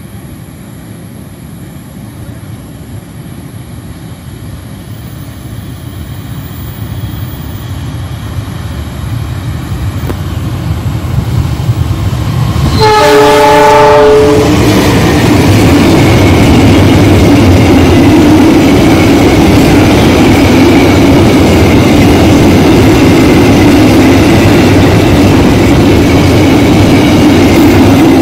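Tank-wagon freight train hauled by a CC 206 diesel locomotive, growing steadily louder as it approaches. About thirteen seconds in the locomotive gives one short horn blast of about a second, then the locomotive and the long string of tank wagons pass close by with a steady, loud rumble of wheels on rail.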